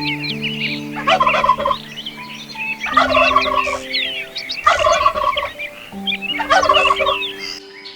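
A large bird calling in four loud, rattling bursts, each under a second long and about two seconds apart, with high chirping from other birds throughout. Soft piano music plays underneath.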